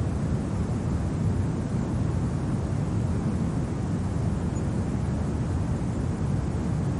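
Steady low rumble of wind in a winter ambience, with no gusts or breaks.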